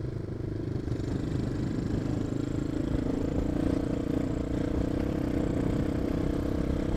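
Suzuki dual-sport motorcycle's single-cylinder engine running under way, its note building over the first couple of seconds and then holding steady, with low rumbling wind noise underneath.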